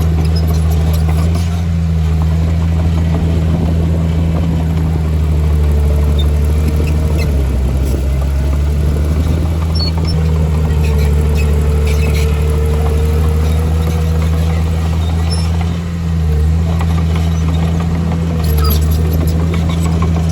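Diesel engine of heavy earthmoving machinery running steadily under load, with a fainter whine that rises and falls, and a brief dip in level about three-quarters of the way through.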